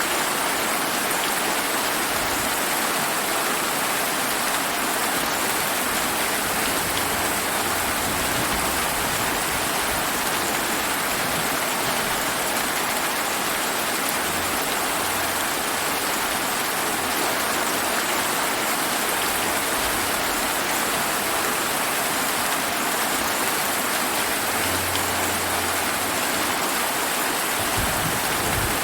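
Steady summer rain falling, an even, unbroken hiss of drops.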